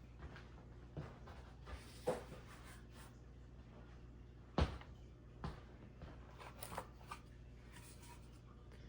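Faint scattered knocks and rustling of ceiling fan parts being handled, over a steady low hum; the sharpest knock comes about halfway through.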